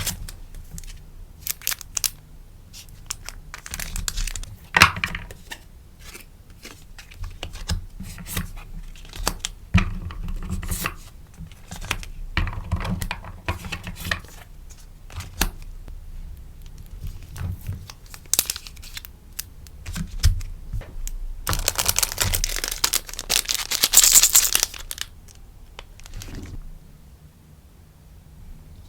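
Sticker orders being packed by hand: crinkly packaging rustling, with many small clicks and handling taps. Past the middle comes a louder tearing sound lasting about three seconds.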